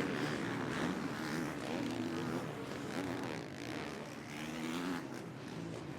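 Several motocross bike engines racing on track, their pitches rising and falling and overlapping as the riders rev and shift.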